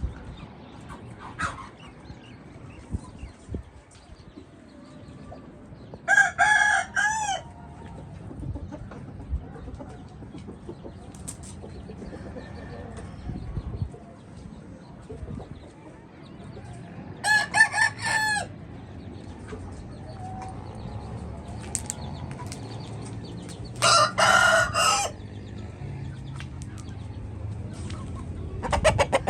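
White Heera aseel chickens calling: three loud, pitched calls of about a second each, roughly ten seconds apart, over quieter clucking.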